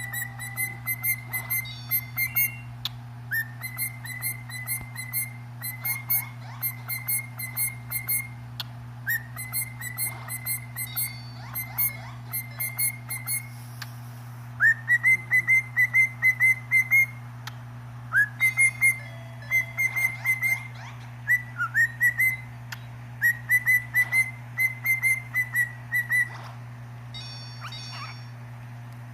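Pet talking bird whistling a song: phrases of short, quickly repeated whistle notes on one pitch, several opening with a rising swoop, with brief pauses between phrases. A steady low hum runs underneath.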